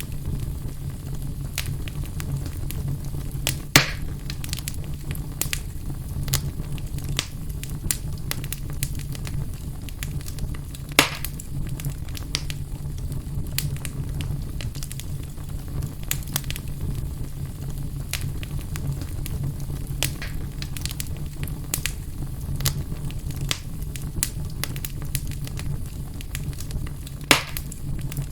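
Wood fire burning in a fireplace, crackling steadily over a low rumble, with three louder pops spread through.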